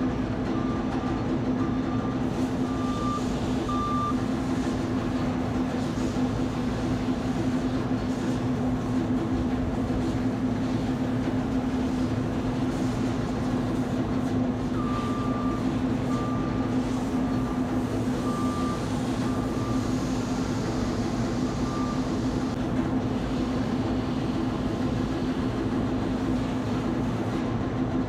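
Heavy engine or machinery running with a steady, loud hum. A high electronic beeping sounds in short, unevenly spaced runs near the start and again around the middle.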